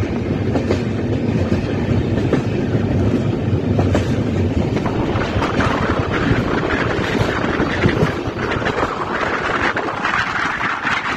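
Passenger train running at speed: steady rumble and clatter of the coaches' wheels on the rails. About eight seconds in the low rumble eases and a hissing rush comes up.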